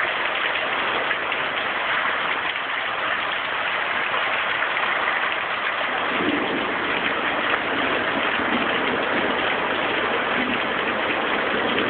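Heavy summer rain pouring down in a steady hiss, with a deeper rush joining in about halfway through.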